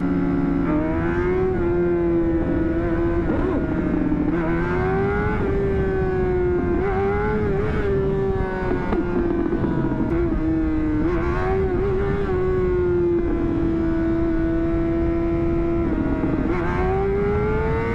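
2009 Honda CBR600RR's inline-four engine running under way, its revs climbing and falling back several times as the bike is ridden.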